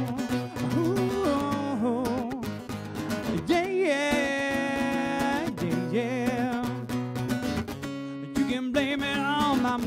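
Live band playing a song, with guitar to the fore: a wavering, bending melody line and held notes over a drum beat.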